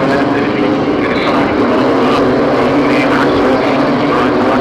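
BMW M2 CS race cars' twin-turbo straight-six engines running at speed, a steady, unbroken drone.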